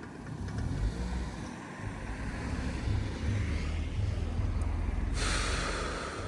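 Low rumble of a motorcycle on the move, engine and wind on the microphone, with a loud hiss for the last second or so.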